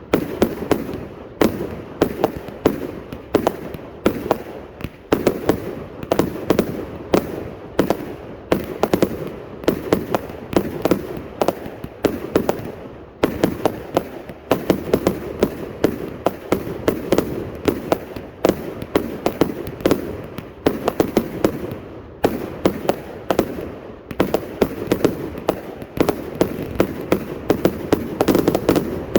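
A 400-shot salute cake firing a long unbroken string of sharp bangs, several a second and unevenly spaced, over a rumble of echoes.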